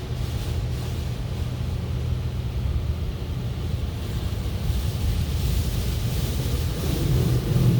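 Automatic car wash spraying water over the car, heard from inside the cabin: a steady rush of water with a low machine hum under it, the spray growing louder about five seconds in.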